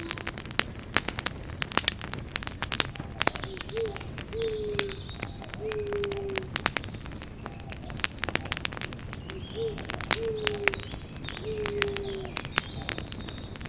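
Campfire crackling with frequent sharp pops. A dove coos a phrase of three low notes twice, starting about three seconds in and again about ten seconds in.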